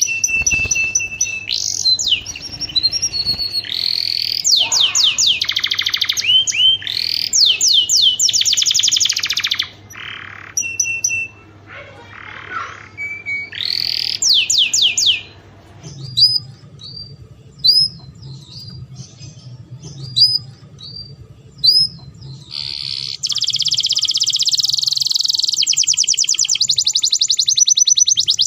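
Domestic canary singing: fast high trills and rolling phrases, then a run of short upward chirps about one a second, then one long, fast trill near the end.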